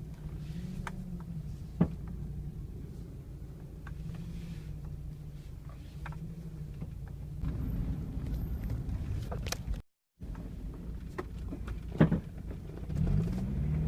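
Mazda Miata's engine running, its pitch rising and falling, with sharp pops every few seconds: the popping noise the owner is trying to show. The loudest pops come about two seconds in and about twelve seconds in, and the sound drops out completely for a moment near ten seconds.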